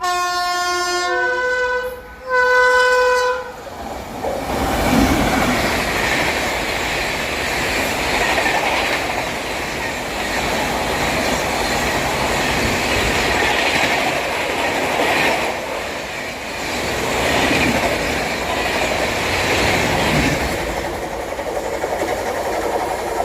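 Indian Railways express train sounding its horn in two blasts, the first changing pitch partway through, then passing at high speed, about 130 km/h: a loud rush of wheels on rail with clickety-clack that swells as the coaches go by and eases off near the end.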